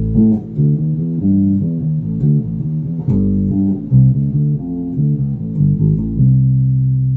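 Birdsong Fusion2 electric bass with two soapbar pickups, played as a plucked bass line of short notes and ending on one held note about six seconds in. It has a dark, warm tone, with the neck pickup turned down and the tone knob rolled back.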